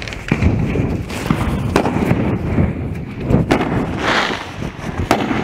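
Fireworks going off: irregular sharp bangs, with a crackling hiss from aerial bursts about four seconds in and again at the end.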